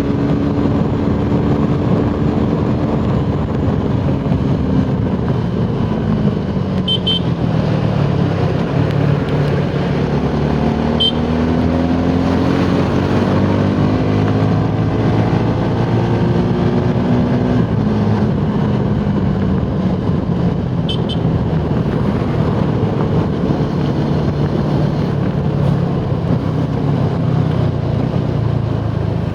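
Suzuki Gixxer SF 250's single-cylinder engine running hard at speed under heavy wind noise. Its pitch falls over the first few seconds, climbs steadily from about ten seconds in, drops again near eighteen seconds, then holds fairly steady.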